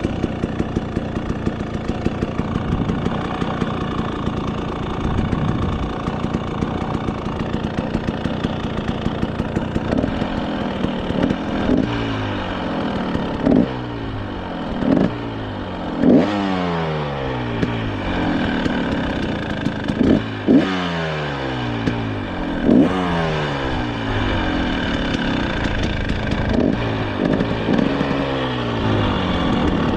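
Dirt bike engine idling, then revved in a string of short throttle blips, each one rising sharply and winding back down to idle.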